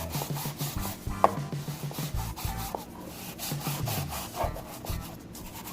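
Cleaning rag rubbing and wiping over engine-bay surfaces in short, irregular strokes.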